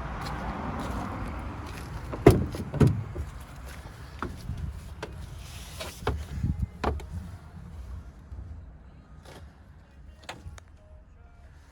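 Clunks and clicks from a truck cab, such as its door and fittings being worked. There are two loud thuds about two seconds in, then lighter clicks and knocks, over a low steady rumble that dies away.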